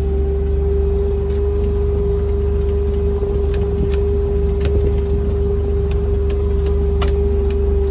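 Vehicle driving at a steady pace over rough farm ground: a low running drone with a steady whine of one pitch, and scattered knocks and rattles from the body over bumps.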